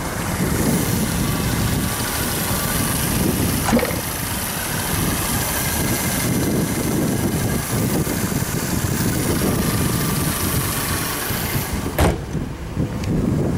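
Rolls-Royce Corniche II's 6.75-litre V8 idling steadily, with two brief knocks, about four and twelve seconds in.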